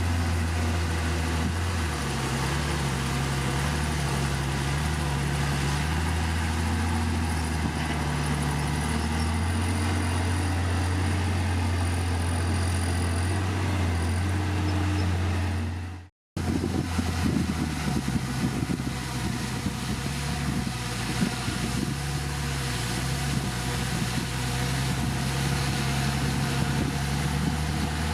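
Heavy diesel engine of earthmoving machinery running steadily, its pitch wavering a little with load. The sound cuts out for a split second about 16 seconds in and comes back with more clatter and knocking over the engine.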